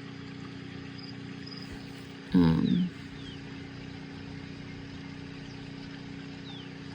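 A steady low background hum, with a brief voiced murmur about two and a half seconds in.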